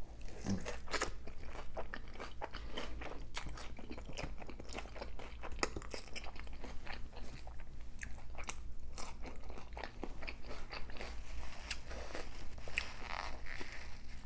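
A person biting into and chewing a consommé-dipped birria taco: a bite, then continuous crunching and chewing made of many small crackling clicks.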